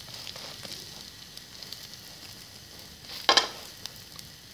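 Egg-coated bread frying in hot fat in a pan, sizzling steadily, with a brief loud clatter about three seconds in.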